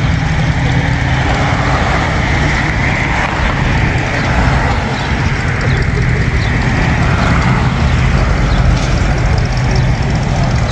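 Car engine idling with a steady, pulsing low exhaust rumble.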